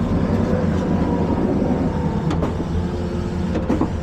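Heavy truck engine running steadily at a low rumble, with a couple of faint clicks about two and a half and three and a half seconds in.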